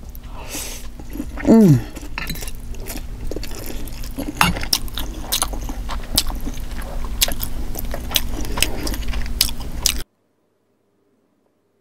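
Close-miked chewing and wet mouth clicks of someone eating lobster tail and black bean noodles, with a short falling vocal sound about one and a half seconds in. The sound cuts off abruptly to dead silence near the end.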